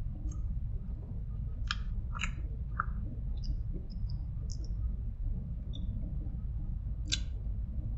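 A person chewing a bite of buffalo chicken pizza topped with crispy fried onions: a handful of short crisp crunches and mouth clicks, the sharpest about two seconds in and near the end, over a steady low hum.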